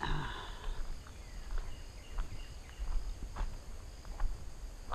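Footsteps of a person walking, with a steady high insect chorus behind them and a few short high chirps.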